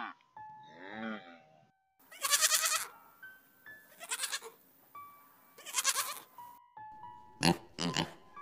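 A Highland calf gives one short moo near the start. A goat then bleats three times, loud and quavering. Near the end, wild boar piglets give a quick run of short grunts. Soft background music plays under it all.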